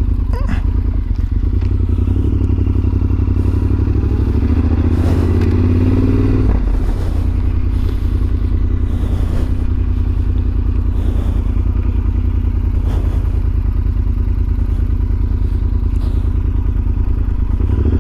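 Yamaha Super Ténéré XT1200Z parallel-twin engine running at low road speed, heard from the rider's position. The revs rise from about four seconds in, drop off sharply at about six and a half seconds, and then it runs steadily.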